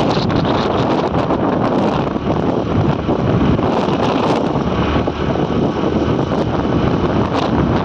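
Wind buffeting the microphone: a loud, steady, gusty rumble with no distinct events.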